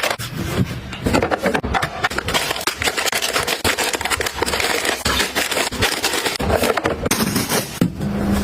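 Close-up handling of objects being sorted and put away: a busy, unbroken run of clicks, taps, rubbing and scraping.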